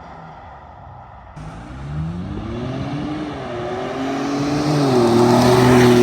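Ford Bronco with an aFe Apollo GT cat-back exhaust accelerating: after a cut about a second and a half in, the engine note rises in pitch, levels off and keeps getting louder toward the end.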